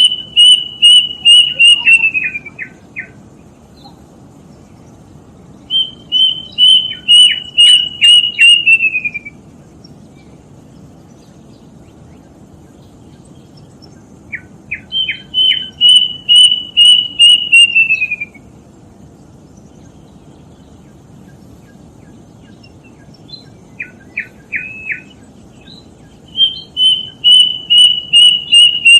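Kedasih cuckoo singing: four phrases of about ten loud, evenly spaced whistled notes, each phrase sliding down in pitch at its end, with a pause of several seconds between phrases.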